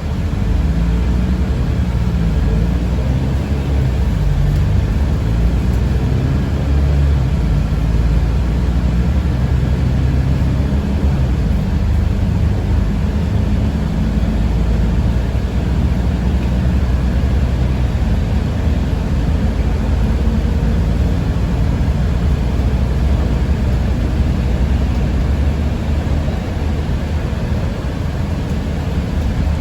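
Steady drive noise inside a city bus under way: a continuous low rumble from the motor and the road, after the vehicle has pulled away from a stop.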